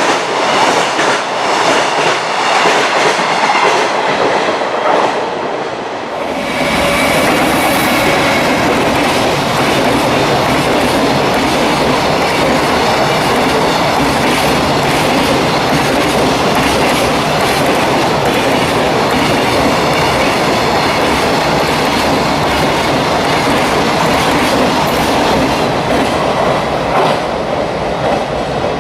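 Freight train passing close by, its wagons' wheels clattering over rail joints in a steady clickety-clack. About six seconds in the sound abruptly becomes louder and fuller.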